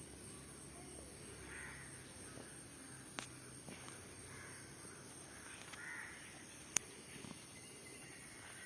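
Crows cawing faintly every couple of seconds over a low outdoor background, with two sharp clicks, the louder one near the end.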